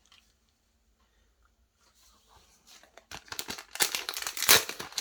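A booster pack's foil wrapper crinkling and tearing as it is handled and opened. It starts about three seconds in after a quiet pause, and grows loud toward the end.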